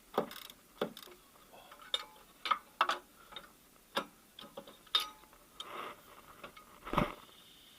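Irregular metallic clicks and knocks from hand tools and parts being handled at the accessory-belt tensioner, with a louder knock about seven seconds in.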